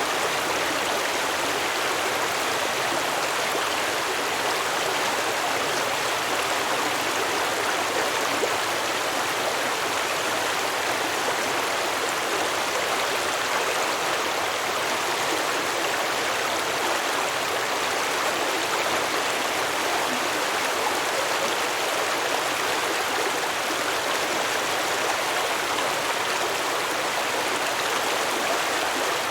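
Stream water running over rocks, a steady babbling rush.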